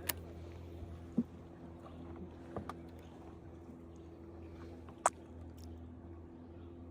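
A boat's motor hums steadily at a low level, with a few sharp clicks and knocks on the boat, about four in all.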